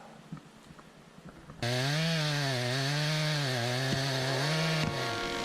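A chainsaw starts loudly after a quiet second and a half and runs hard, its engine pitch dipping and recovering as it cuts under load, then steadies near the end.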